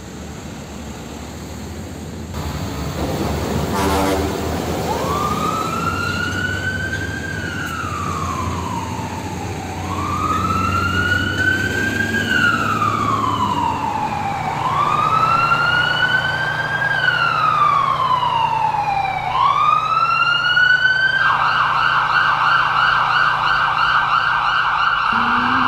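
Emergency-vehicle siren wailing in slow rise-and-fall sweeps about every five seconds, then switching to a fast yelp near the end, over a low vehicle rumble.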